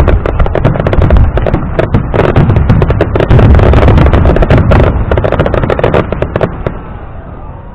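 Fireworks going off in a rapid barrage of bangs and crackles over a low rumble, dying away about six and a half seconds in.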